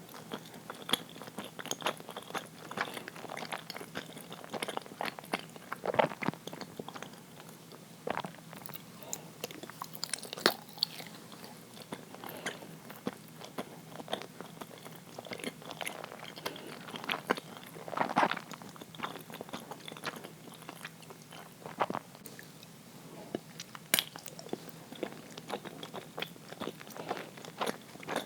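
A person chewing uiro, a soft, sticky sweet rice jelly, with irregular wet mouth clicks and smacks throughout.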